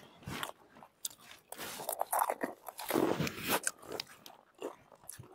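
People biting and chewing crisp gupchup (pani puri) shells: irregular, fairly quiet crunches and chewing sounds.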